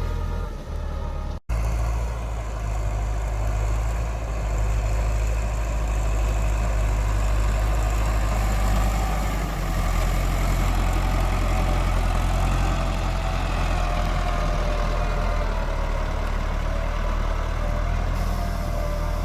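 Thalay Thong TR55 four-wheel-drive tractor's diesel engine running steadily while ploughing hard soil, with a momentary dropout about a second and a half in.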